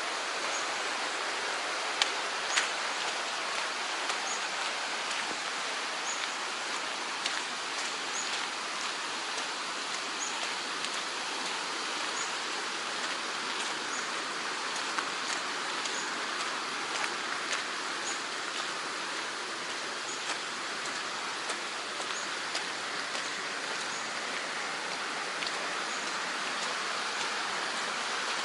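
Mountain stream running steadily, an even rushing of water. A few sharp clicks stand out, the loudest two about two seconds in, and a faint high chirp repeats about every one to two seconds.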